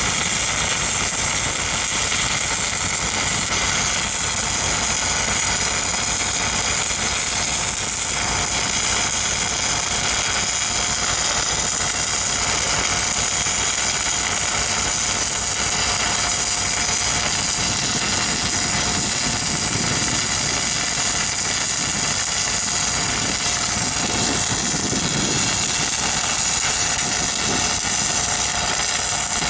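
Engine-driven welding machine running steadily, with an even hiss over it.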